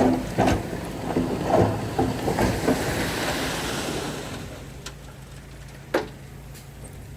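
Heavy earthmoving machinery at work: a quick run of metallic clanks and rattles, then a rushing noise that swells and fades, leaving a steady low engine hum with one sharp clank near the end.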